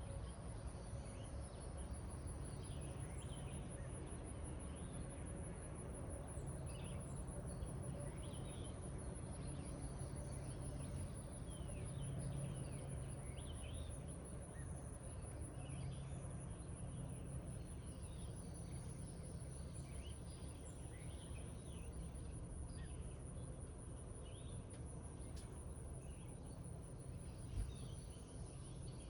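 A high, continuous pulsing insect trill, like crickets in a summer meadow, with many short bird chirps scattered through it over a steady low background hiss. One brief louder knock comes near the end.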